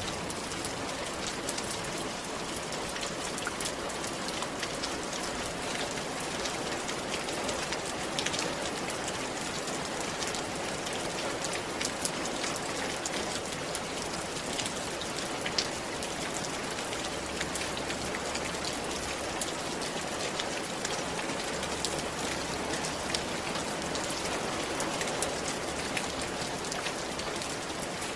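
Steady rain falling on a roof, with many sharp single drops ticking through the even hiss.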